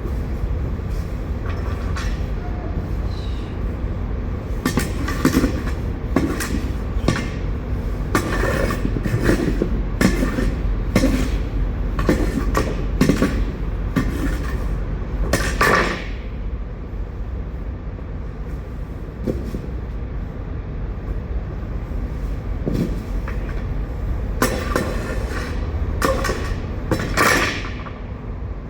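Knocking and clattering as leftover potatoes are pried loose and cleared out of a trailer floor, in two spells: a long busy one through the first half and a shorter one near the end. A steady low rumble runs underneath.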